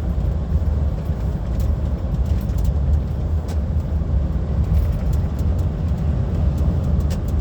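Steady low drone of an HGV's engine and tyres heard from inside the cab while driving, with faint irregular ticks over it.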